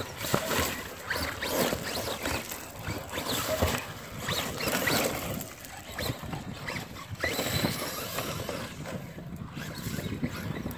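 Brushless electric motors of Traxxas Rustler VXL radio-controlled trucks whining up and down in pitch as they drive through wet mud, with tyres churning and splashing.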